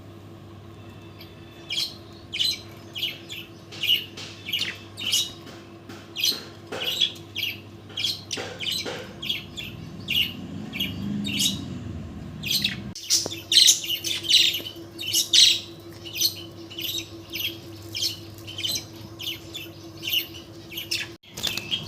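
Pet bird chirping and squawking in a long run of short, sharp, high calls, about two a second, over a steady low hum.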